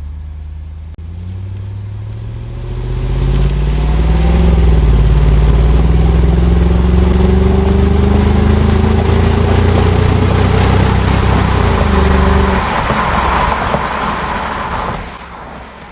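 2001 Jaguar XK8's 4.0-litre AJ27 V8 on an aftermarket exhaust, accelerating away from a stop: the exhaust note climbs steadily in pitch and grows loud for about twelve seconds, then the throttle lifts and the note falls away.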